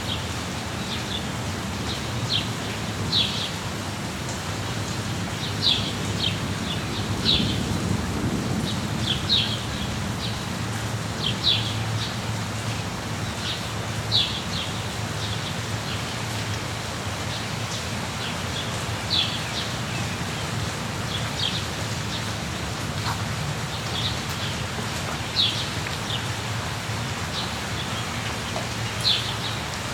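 Steady rain with a bird chirping, short high chirps repeated every second or two. A low rumble swells briefly about eight seconds in.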